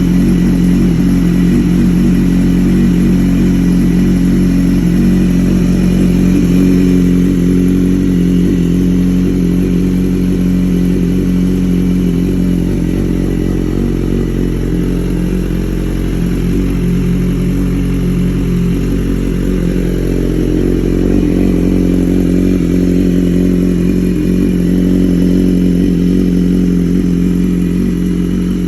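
2012 BMW S1000RR's inline-four engine running at a steady idle, making a really odd sound that the owner cannot identify.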